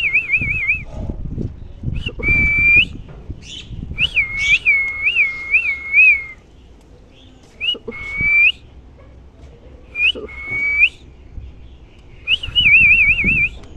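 Parrot whistling in short phrases of pure notes: a held tone, a quick wavering trill, and a run of up-swooping whistles, with pauses between phrases.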